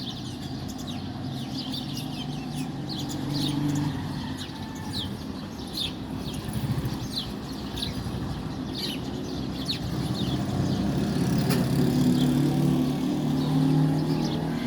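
Small birds chirping, many short, sharp chirps one after another, over a steady low engine-like hum that grows louder in the last few seconds.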